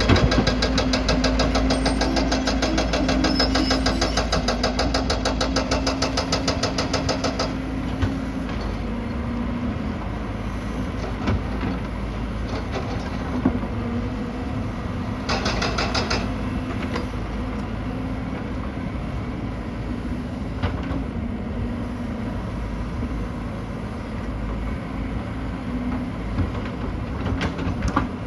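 Excavator's diesel engine running steadily, with a fast, even rattle for the first seven seconds or so and again briefly about halfway through.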